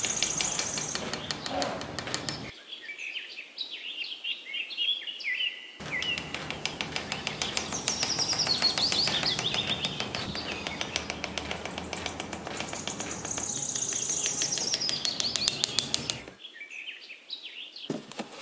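Small birds chirping and singing, many short overlapping calls. For the first couple of seconds and again through most of the middle, a steady hissing noise full of fine crackles lies under the birdsong, starting and stopping abruptly.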